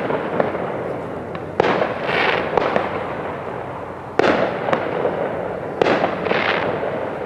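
Fireworks going off: sharp bangs about one and a half, four and six seconds in, each followed by around a second of crackling, with scattered single pops in between.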